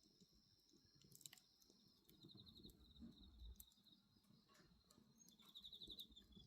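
Faint crackling of a wood bonfire with a few sharp pops, while crickets chirp in two short trains of rapid pulses.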